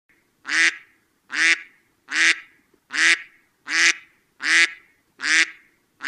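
A duck quacking: seven short, alike quacks, evenly spaced a little under a second apart.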